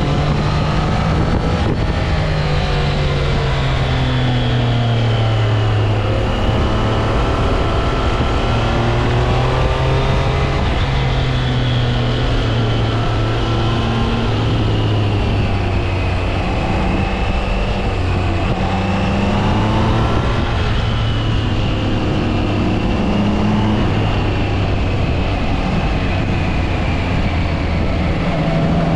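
Triumph Trident 660 motorcycle's inline three-cylinder engine and exhaust running on the move. The engine note rises and falls repeatedly with the throttle.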